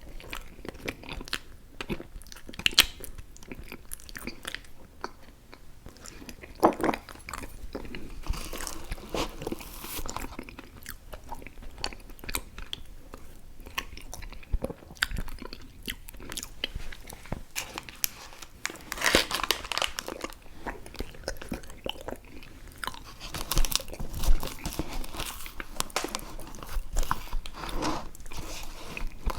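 Close-miked chewing of chewy fruit candies (Airheads Bites and Tootsie Fruit Chews): sticky wet mouth smacks and bites in an irregular stream, with louder clusters about a third of the way in, past the middle and near the end.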